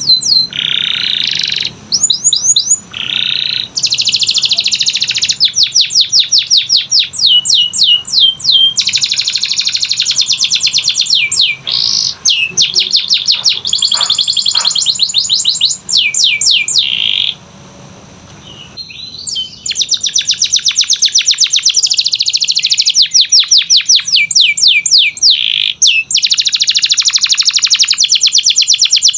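A canary singing long, fast trills of rapidly repeated chirping notes, changing from one trill to the next. The song breaks off for about a second and a half in the middle, then resumes.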